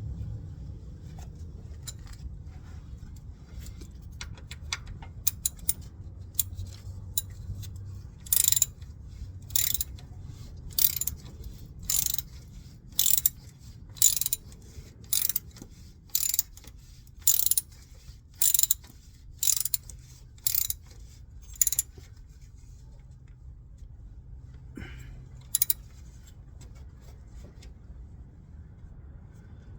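Ratchet wrench worked in repeated strokes, a sharp ratcheting rasp about once a second, a dozen or so times, during an oil change. Light scattered clicks come before it, and a low steady rumble lies underneath.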